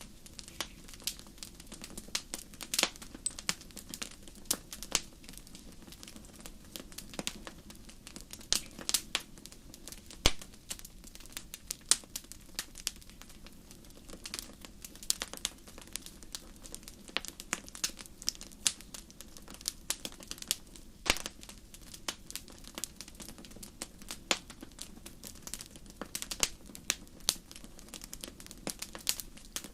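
Fire crackling in a fireplace: irregular sharp pops and snaps, often several a second, over a steady low background.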